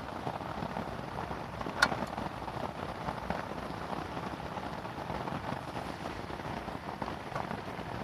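Steady rain falling on a canvas tent, with one sharp pop about two seconds in and a few fainter ticks.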